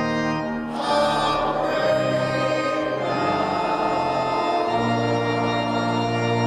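Church organ playing sustained chords, moving to a new chord every second or two.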